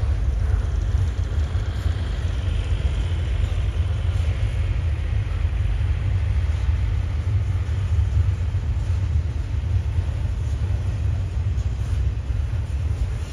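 Double-stack intermodal freight train's container cars rolling past at speed, a steady low rumble of wheels on rail.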